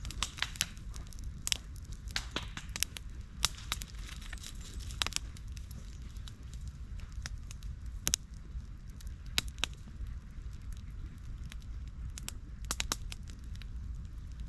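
Wood campfire crackling, with irregular sharp pops, thickest in the first few seconds and again near the end.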